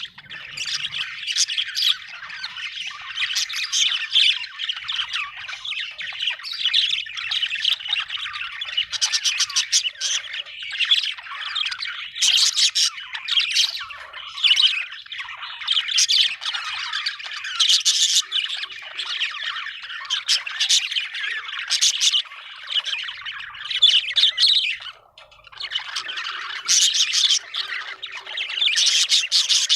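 Budgerigars chattering and warbling without a break, with frequent louder, sharper squawks, and a brief lull about 25 seconds in.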